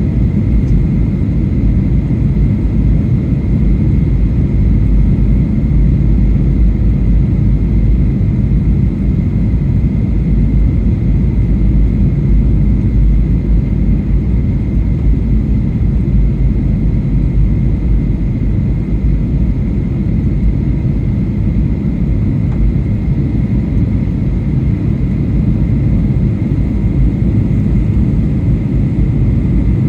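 Steady in-flight cabin noise of a Boeing 737-800, heard from inside the cabin: an even, low rumble of engines and airflow, with a faint steady whine above it.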